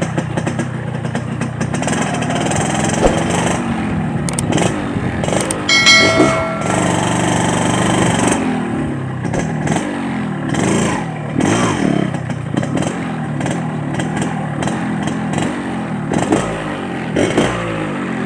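Yamaha RX-King 135cc two-stroke single-cylinder motorcycle engine being ridden, its pitch rising and falling again and again as the throttle is opened and eased off. A short horn blast sounds about six seconds in.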